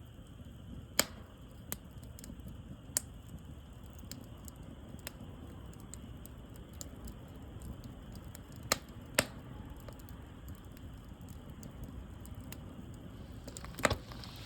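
Wood fire burning with a steady low rush, broken by sharp isolated crackles and pops a few times.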